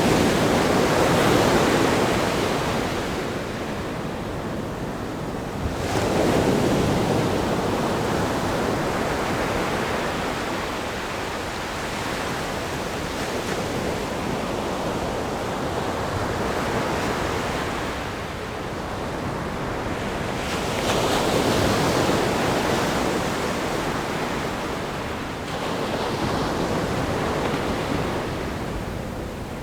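Ocean waves breaking against a rock groin and washing up a sandy beach: a continuous wash of surf that swells about four times as waves break, with a little wind on the microphone.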